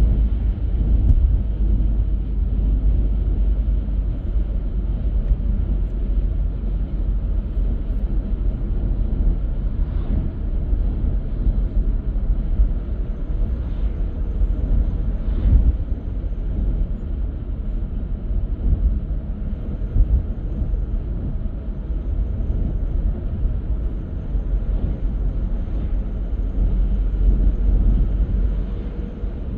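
Steady low rumble of a car driving on the road, tyre and engine noise, with a few faint knocks from bumps in the road.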